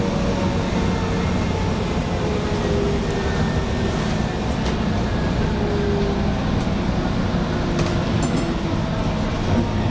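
DART light-rail train slowing to a stop at a station, heard from inside the car: a steady low rumble with a faint motor whine that slowly falls in pitch as it brakes, and a few light clicks near the end.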